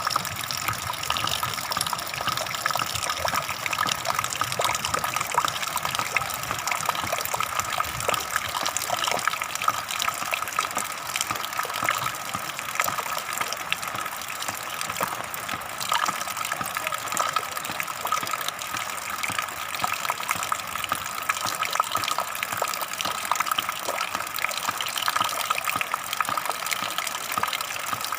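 Flowing water gushing and splashing steadily.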